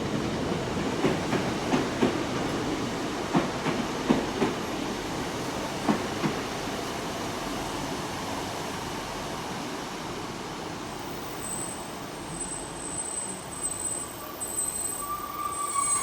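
Pair of coupled Class 150 Sprinter diesel multiple units rolling into the platform, wheels knocking over rail joints in the first few seconds as the rumble fades. High-pitched wheel or brake squeals come in the last few seconds as the train slows.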